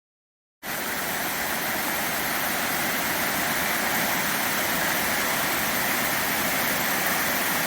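Steady rush of running water, beginning abruptly about half a second in and cutting off suddenly at the end.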